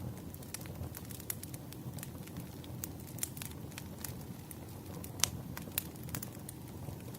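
Firewood burning: a steady low rumble with irregular sharp crackles and pops, one louder pop about five seconds in.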